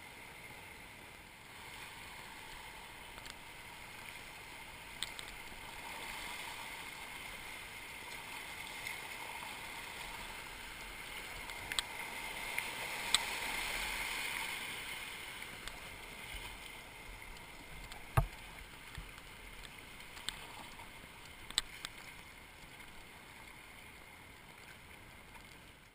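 Rushing river water, a steady hiss that swells midway and then eases off, with scattered clicks and knocks of kayak paddling. One sharp knock comes about two-thirds of the way through.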